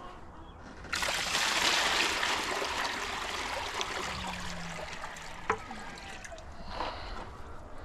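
Water pouring into a chicken waterer, starting abruptly about a second in and slowly growing quieter, with a single click partway through.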